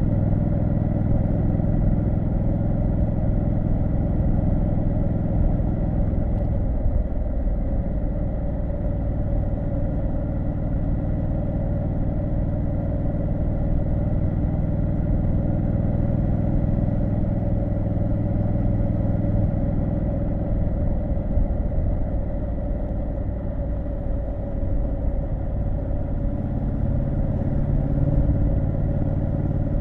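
Triumph Street Scrambler 900's 900 cc parallel-twin engine running steadily under way, its note dipping briefly about six seconds in and shifting again near the end as engine speed changes.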